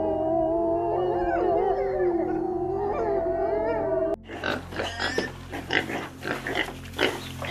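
Several wolves howling together in long, overlapping howls that slowly bend in pitch. About four seconds in they cut off abruptly, and pigs grunting in short, rough bursts take over.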